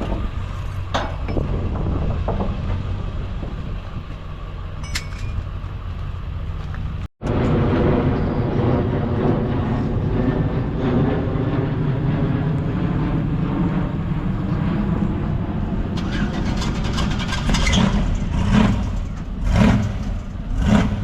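Car engines running at idle with a deep exhaust rumble. After an abrupt cut, an engine idles steadily, then is revved in four or five short blips near the end.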